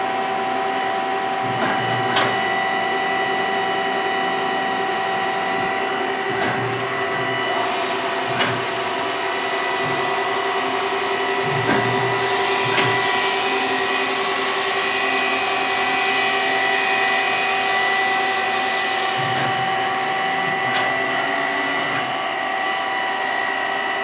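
Star SV12 CNC Swiss-type automatic lathe running, a steady machine whine made of several constant tones, with occasional sharp clicks and short low thuds. A brighter hiss comes in about eight seconds in and fades out near the end.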